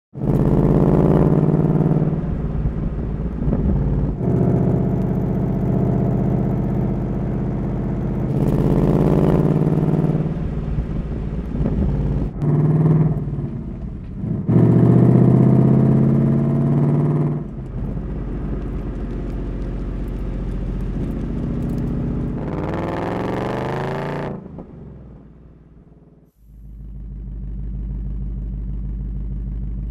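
Ford Mustang Mach 1's 5.0-litre V8 revving and accelerating in several loud bursts, one rising in pitch, then fading away. After a short break, the engine settles into a steady idle near the end.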